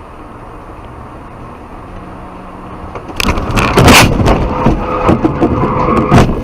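Steady road and engine noise in a moving car, then about three seconds in a collision: a run of loud bangs and crunching, scraping impacts, the loudest about a second later and another near the end.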